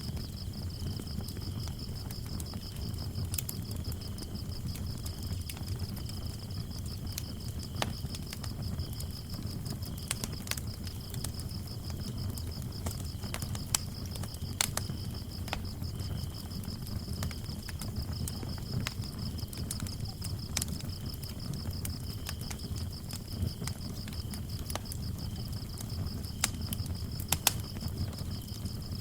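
Wood fire burning with a low rumble and scattered sharp crackles and pops, under crickets chirping: one high steady trill, with a second, lower cricket chirping on and off.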